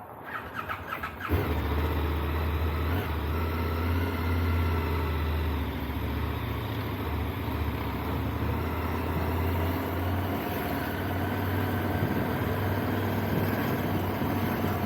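Motorcycle engine cranking with a few short pulses and catching about a second in, then running steadily.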